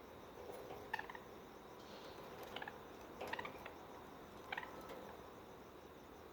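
Pet budgies giving a few short, sharp chirps, about four calls spaced over a few seconds, over a steady faint hiss.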